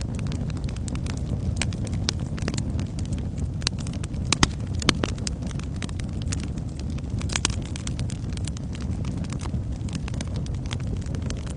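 Wood fire crackling in a fireplace: a steady low rumble of flames with a constant scatter of sharp crackles and pops, a few louder pops near the middle.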